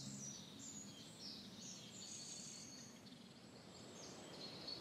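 Faint birdsong, thin high chirps and short trills, over a quiet outdoor background.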